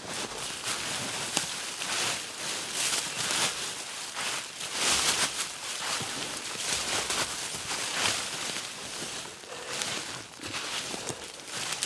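Irregular rustling and crunching, as of a person moving about and handling leaves, brush or other forest debris.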